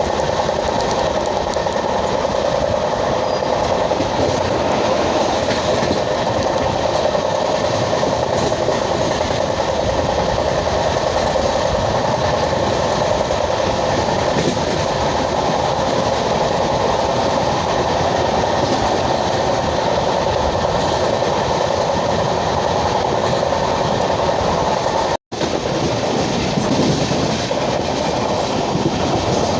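Indian Railways LHB passenger coach running at speed: a steady rumble of wheels on the rails, broken off for an instant about 25 seconds in.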